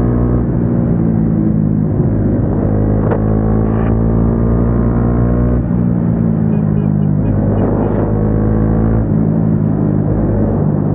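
Single-cylinder motorcycle engine with an aftermarket exhaust, running under way at fairly steady revs, its pitch easing and rising a little a few times.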